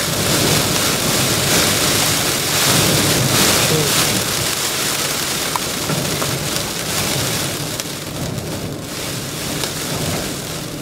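Heavy rain from a supercell pelting a vehicle, a dense steady rush of noise that is heaviest in the first few seconds and eases a little towards the end.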